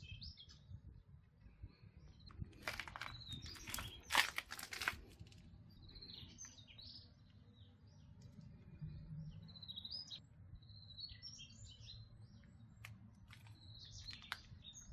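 Small birds chirping over and over, faint. A few sharp knocks cut in, around three and four seconds in, the loudest at about four seconds, and again near the end.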